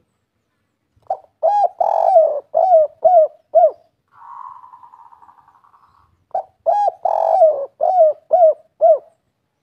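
Spotted dove (tekukur) singing its 'kuk 3' cooing song: two phrases of about six rounded coos each, the third coo in each phrase longer than the rest. Between the phrases comes a quieter, buzzy rattle lasting about two seconds.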